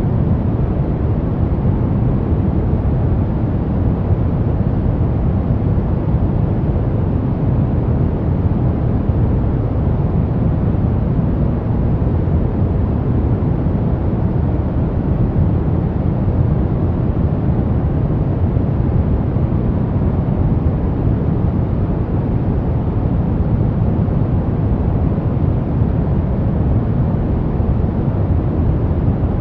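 Steady pink noise: an even, unchanging rushing hiss, heaviest in the low end.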